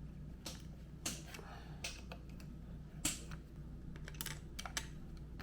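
Scattered light clicks and taps of a motorcycle carburetor and its small parts being handled and worked on, over a low steady hum.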